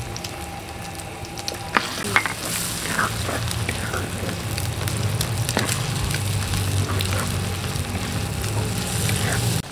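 Scrambled eggs and chili-garlic-shallot paste sizzling and frying in an earthenware wok while a wooden spatula stirs and scrapes them. There are a couple of sharp knocks of the spatula against the pan about two seconds in.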